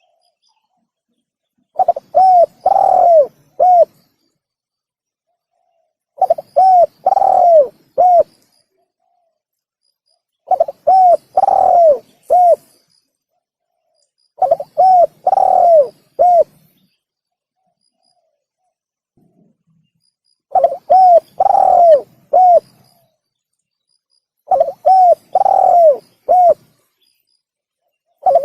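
Spotted dove (tekukur) cooing. Six phrases, each of a couple of short coos, a longer drawn-out coo and a short closing one, come roughly every four seconds, with one longer pause midway.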